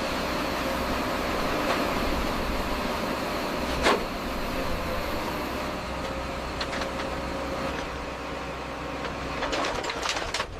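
Steady mechanical running noise with a faint hum, broken by one sharp knock about four seconds in and a cluster of clicks near the end.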